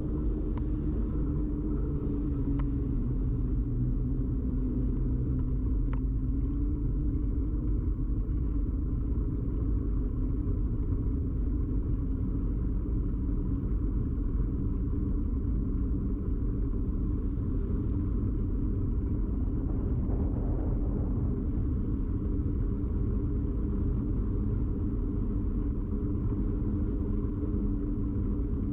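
Steady low rumble of a bicycle ride picked up by a camera fixed to the bike: road and tyre vibration carried through the frame.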